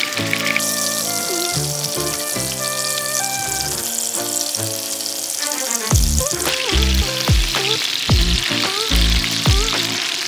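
Chicken breasts frying in oil and butter in a pan, a steady sizzle, under background music whose steady beat comes in about six seconds in.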